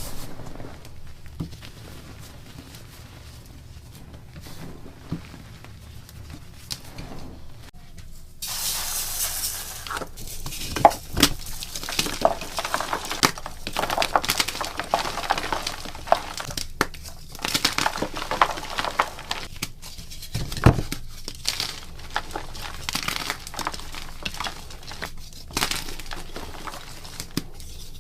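Block gym chalk being crushed and crumbled close up: soft crackling crunches, quieter for the first several seconds and much denser from about eight seconds in, with a few sharper snaps as pieces break.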